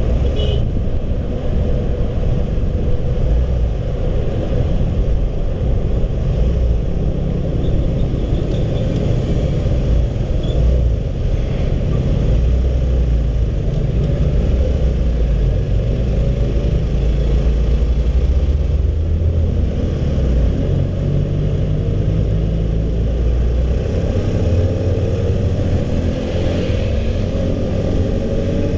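Honda CB150R's single-cylinder four-stroke engine running steadily under way, its sound mostly low; the engine note rises over the last few seconds as the bike accelerates.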